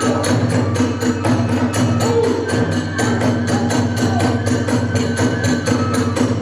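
Kagura festival music: a fast, even beat of drums and small hand cymbals at about five strokes a second, with a held, sliding melody line above it.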